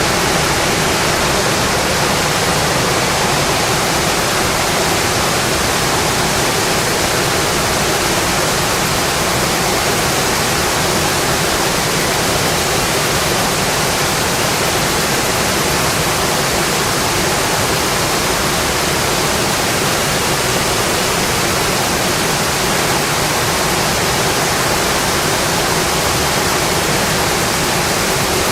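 Rain falling steadily: a dense, even hiss with no single drops or crackles standing out.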